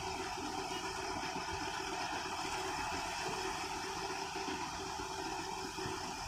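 Combine harvester's engine running steadily.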